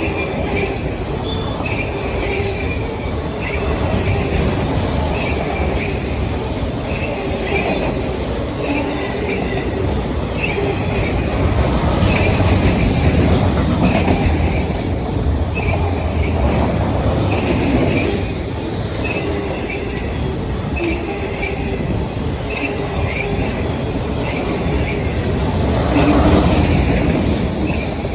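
CSX freight train of autorack cars rolling past: a steady rumble of steel wheels on rail, with short high-pitched wheel squeaks repeating about once a second. It swells louder about halfway through and again near the end.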